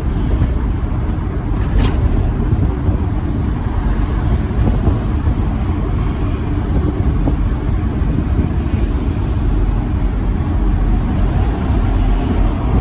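Steady low rumble of a moving truck: engine and road noise. A short click about two seconds in.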